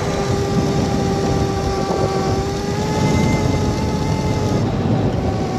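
Modded Razor MX650 electric dirt bike's motor whining at a steady pitch while riding, over a low rumble of wind and riding noise.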